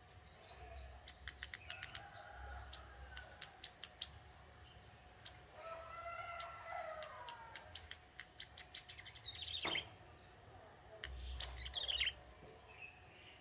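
Young male ciblek tebu (a prinia) singing: runs of sharp ticking notes, a lower warbled phrase around the middle, then two fast trills that fall in pitch, the second near the end.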